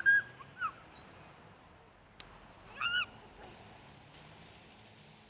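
Geese honking: a few short calls near the start and another about three seconds in, with a single sharp click in between.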